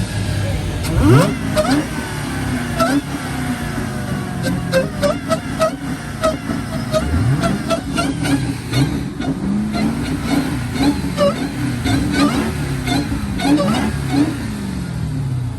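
Muscle car engines revving over and over, the pitch climbing and dropping with each blip, with two sharp rev-ups and a scatter of sharp exhaust pops and crackles.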